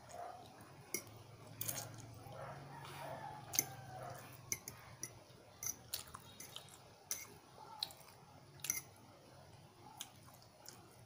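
Close-up eating sounds of a person chewing a mouthful of pancit canton noodles: wet chewing with irregular sharp mouth smacks and clicks.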